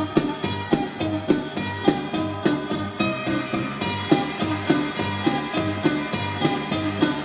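A rock song played through a live sound mixing desk, with a steady beat of drums, bass and electric guitar and no vocals. The kick drum is mixed a little lower after sounding too clicky. Bright, regular ticks in the top end drop out about three seconds in.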